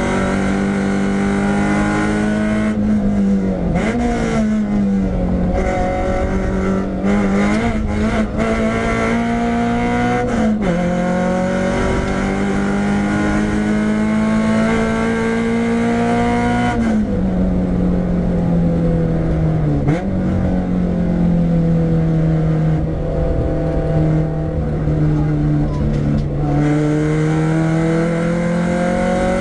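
Renault Clio 172's 2.0-litre four-cylinder engine under hard acceleration on track, pitch climbing steadily and dropping sharply at gear changes several times, with brief dips and blips around the braking points. Heard from inside the stripped-out cabin.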